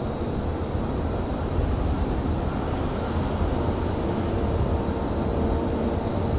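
Steady low rumble of railyard machinery, with a thin steady high whine over it and faint mid-pitched tones joining about two-thirds of the way in.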